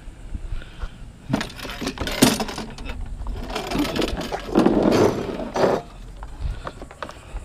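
Scrap metal being loaded into a truck bed, clattering and banging: a run of clinks and knocks, loudest from about four and a half to five and a half seconds in.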